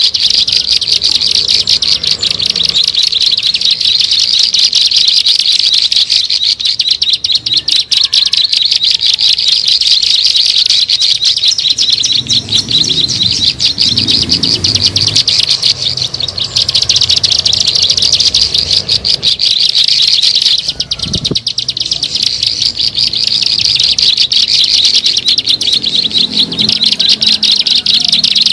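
Plain prinia (ciblek sawah) call recording played as a bird lure: a continuous, rapid chatter of fast repeated high notes, briefly breaking off about 21 seconds in.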